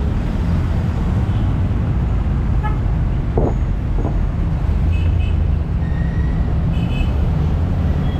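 Road traffic: a steady low engine rumble, with brief horn toots about five and seven seconds in.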